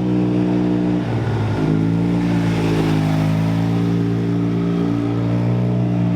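A performance vehicle's engine running hard. Its pitch dips about a second in, then holds steady.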